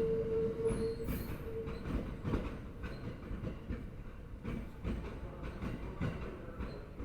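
Sobu Line train wheels clattering over rail joints with irregular, gradually weakening knocks as the train runs on. A steady whine sounds over the first second and a half or so, then dies away.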